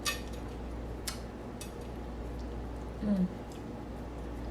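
Quiet eating sounds: a few sharp mouth clicks and smacks while chewing fried catfish, and a short hummed murmur about three seconds in, over a steady low electrical hum.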